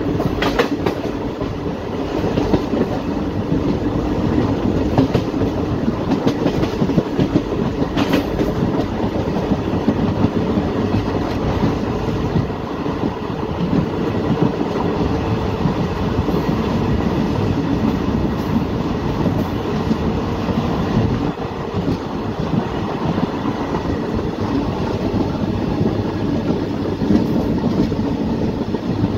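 A passenger train's coach running along the track at speed, heard from an open coach window: a steady rumble of wheels on rails, with a sharp click just after the start and another about eight seconds in.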